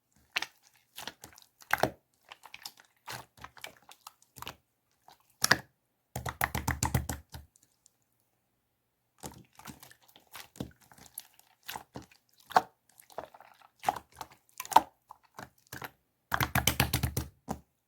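Irregular sharp clicks and taps, with two short runs of rapid clicking, one about six seconds in and one near the end.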